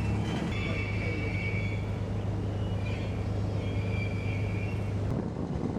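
Riverboat engine running with a steady low drone, and high thin whistling tones over it twice.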